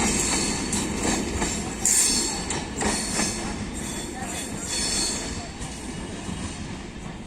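Passenger train coaches rolling past on departure: wheels knocking over the rail joints with brief high wheel squeals, the sound fading as the train pulls away.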